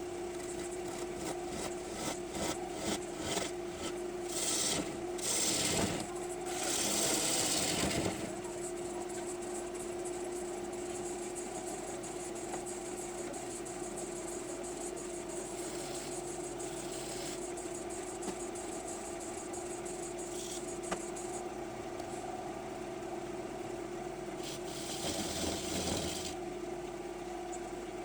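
Wood lathe motor running with a steady hum while a turning gouge cuts a green maple bowl blank. The cutting gets louder and hissier a few seconds in and again near the end.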